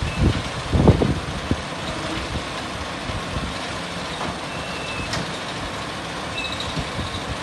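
A few low knocks from the concrete block-making machine's mould and lever mechanism in the first second and a half, then a steady rushing noise with a few faint, short high beeps.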